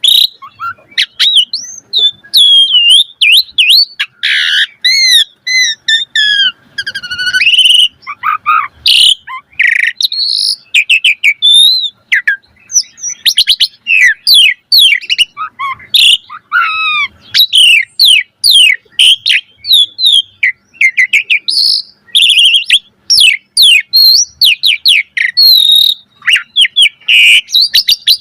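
Asian pied starling (jalak suren) singing a long, rapid, varied song of whistles, chirps, slurred notes and trills that jump up and down in pitch.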